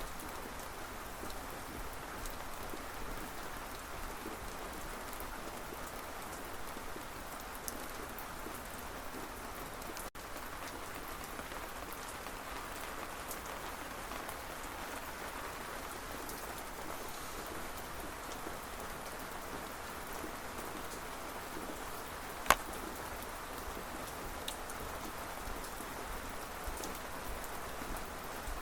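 Steady rain falling, a constant even patter with scattered drops ticking through it. One sharp, loud click stands out about three-quarters of the way in.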